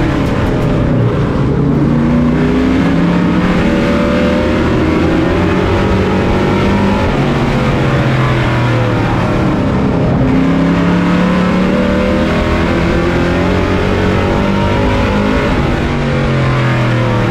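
Racing truck's engine heard on board, revving up and easing off in turn. The pitch climbs on the power, falls off about ten seconds in and again near the end, then climbs once more, as on a short oval's straights and turns.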